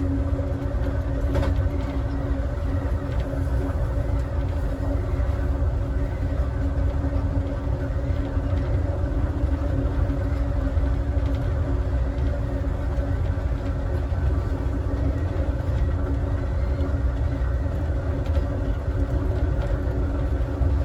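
Amtrak Southwest Chief passenger train running at speed, heard from inside its last car: a steady low rumble of wheels on rail with a steady hum over it and an occasional faint click.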